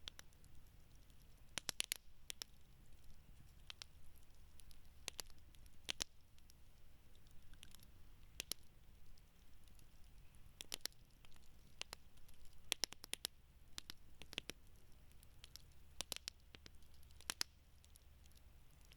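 Wood campfire crackling: sharp, irregular snaps and pops, some coming in quick clusters of two or three, over a faint low rumble.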